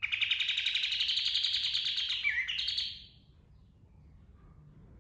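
Kapas tembak songbird singing a fast rolling trill, rapid notes run together for about three seconds, rising slightly and ending with a brief dip and a few higher notes.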